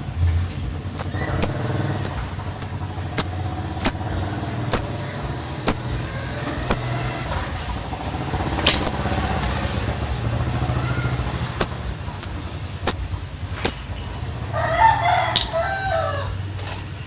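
Lovebird singing the continuous chirping song that bird keepers call 'ngetik': a run of sharp, high chirps, about two a second, from about a second in, with a short burst of lower chattering near the end.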